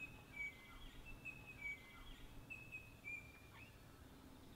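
Faint bird calls: a series of short, high whistled notes over a quiet background, stopping after about three and a half seconds.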